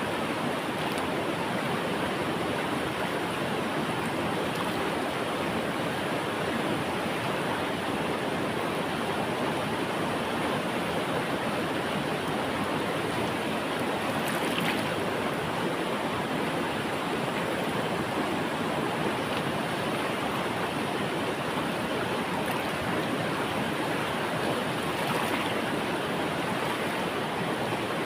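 River water flowing, a steady rushing sound with no letup.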